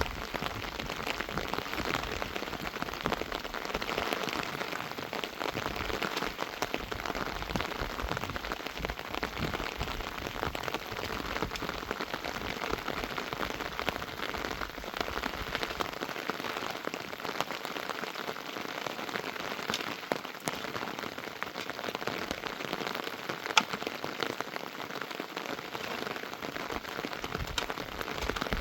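Steady heavy rain, a dense patter of drops hitting a surface, with one sharper tick about twenty-three seconds in.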